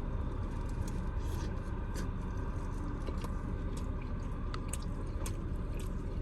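A person chewing a mouthful of soup-dipped carne asada, with scattered short wet mouth clicks, over a steady low hum.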